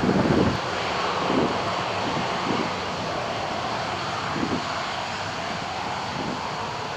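Jet airliner engines: a steady broad roar with hiss that slowly eases. Wind buffets the microphone in the first half second.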